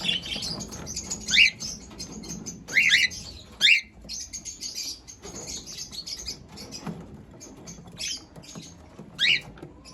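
Cockatiel giving several short chirps that fall in pitch, over a steady fine crackle of its beak nibbling and pecking at food.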